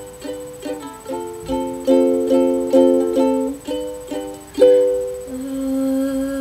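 Ukulele playing the closing bars of a song: a run of plucked and strummed chords, each ringing and fading, then one long held note near the end.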